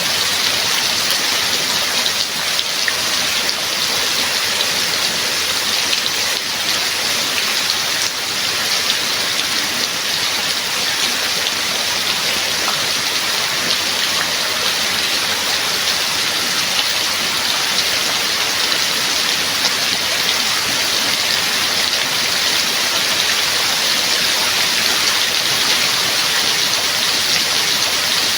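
Steady rain falling, a dense, even hiss of drops that holds constant throughout.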